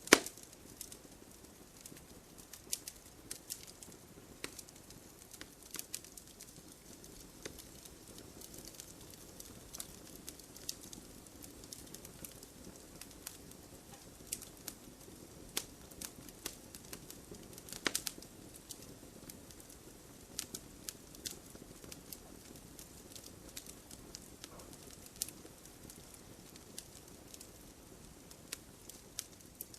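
Open wood fire crackling: irregular sharp pops and snaps over a soft low hiss, the loudest pops right at the start and about eighteen seconds in.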